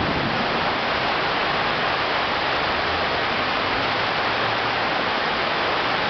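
Heavy tropical downpour, a dense steady hiss of rain that does not let up.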